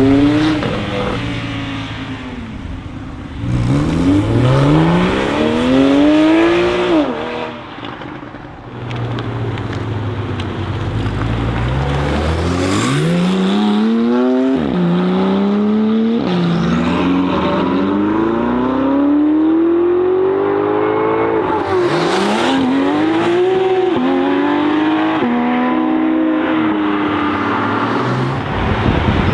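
Porsche 991 Turbo S twin-turbo flat-six with an Akrapovic exhaust accelerating hard through the gears. Its pitch climbs and drops sharply at each upshift, about five times.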